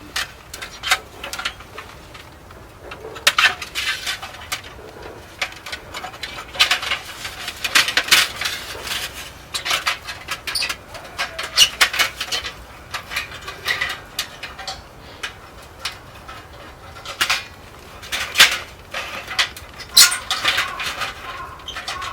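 Irregular clinks and knocks of metal camp cookware and gear being handled, a few sharp hits every second.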